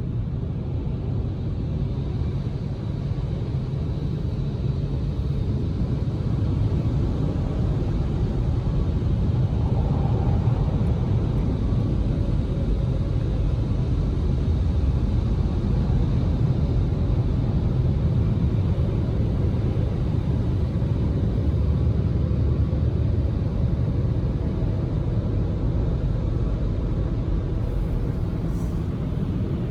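Automatic car wash blower dryers blasting air over the car in a steady, deep rush that swells a little partway through.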